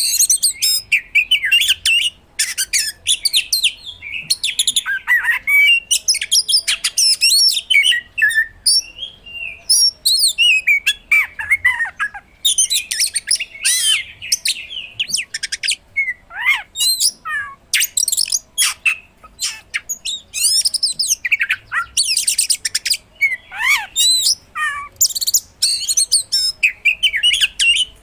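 Oriental magpie-robin singing hard and without let-up. The song is a varied run of rapid chirps, whistled sweeps that fall in pitch, and high trills, broken into short phrases with brief pauses. It is the busy, mimicry-filled song that keepers use as a lure to set other magpie-robins singing.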